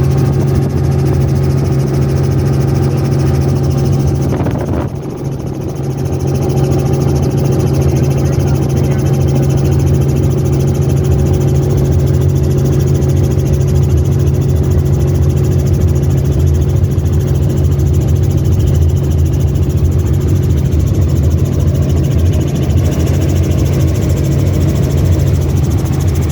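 Helicopter in flight: a steady, loud drone of the engine and rotor, heard from a passenger's seat. The level dips briefly about five seconds in, then returns.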